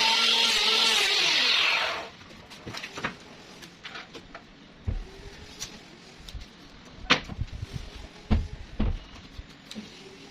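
An electric power tool motor running, then winding down in pitch and stopping about two seconds in. Scattered knocks and clicks follow, with a few sharper knocks later on.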